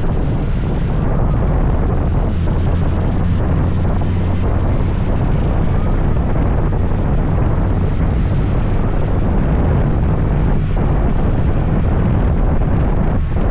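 Scooter riding at steady speed: a continuous engine drone under wind rushing over the microphone.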